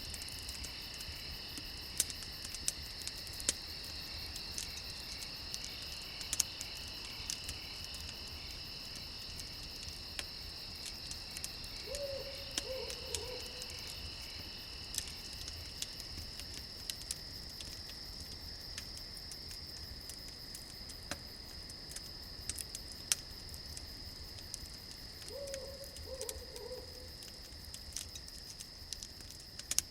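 Campfire crackling with sharp, irregular pops over a steady chirring of crickets, one strand of which stops about halfway. An owl hoots twice, near the middle and again near the end.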